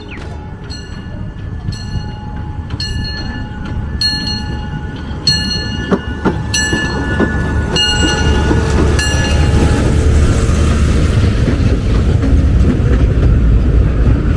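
Small tourist park train running on its track, its low rumble building louder. Over the first several seconds there is a run of bell-like dings.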